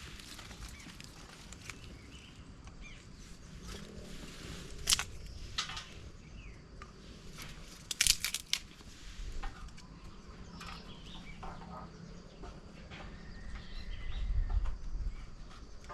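Forest ambience: a steady high insect drone with faint bird chirps, broken by sharp knocks about five seconds in and twice about eight seconds in, and a low rumble near the end.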